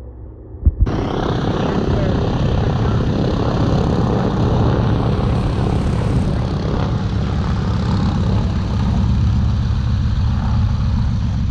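Propeller airplane's piston engines running close by, a loud steady rumble with a noisy roar over it that starts abruptly about a second in.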